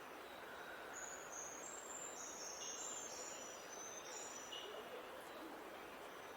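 Outdoor nature ambience: a steady hiss with several high, thin, level-pitched calls that overlap from about a second in to about four and a half seconds in.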